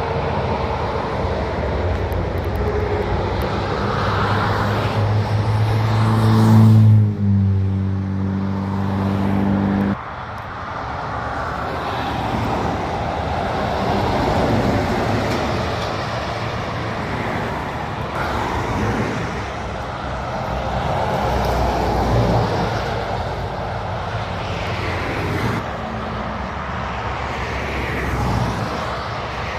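Heavy truck engine running close by for about ten seconds, its pitch rising and then dropping once, before cutting off abruptly. Road traffic follows, with vehicles passing.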